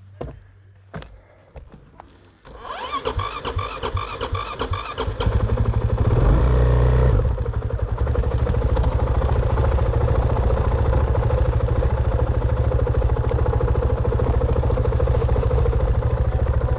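Dirt bike engine being started: a couple of clicks, then the engine sputters over for a few seconds and catches about five seconds in. It revs briefly, then settles to a steady run.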